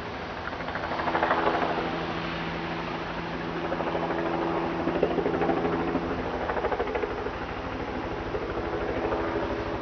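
Helicopter flying overhead out of sight: a steady engine drone with fast, even rotor pulsing, swelling louder about a second in.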